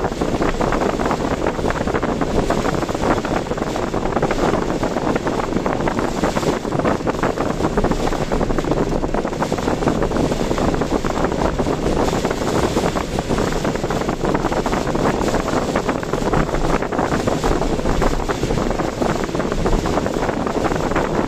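Steady noise of a car driving on a city road in typhoon weather: road and engine noise mixed with storm wind buffeting the microphone, unbroken throughout.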